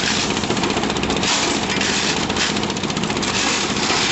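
Engine-driven concrete mixer running steadily with a fast, even chatter, with two louder surges of gritty noise as aggregate is tipped into the turning drum while a batch is loaded.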